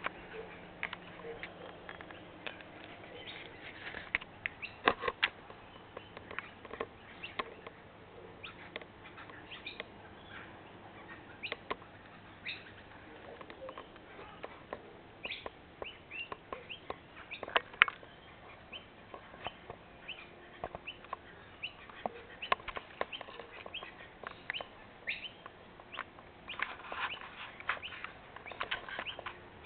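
Scattered short bird chirps and sharp clicks at irregular intervals, with a busier cluster of chirps near the end, over faint steady background noise.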